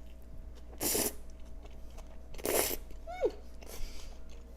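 Close-miked eating and breath sounds: two short airy rushes, about a second and a half apart, then a brief falling squeak and a fainter rush near the end.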